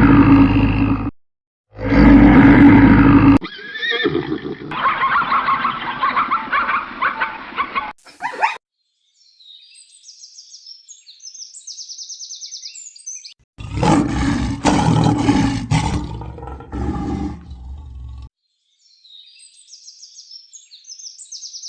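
A series of different animal calls cut one after another. It opens with two loud, low roaring calls, and other calls follow. High, rapid chirping comes twice, once near the middle and again near the end.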